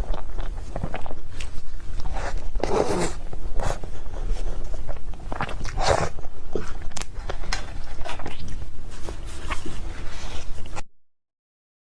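Close-miked eating sounds of cake: wet mouth clicks, bites and chewing, with a couple of louder crackly bursts about three and six seconds in. The sound cuts off abruptly to total silence near the end.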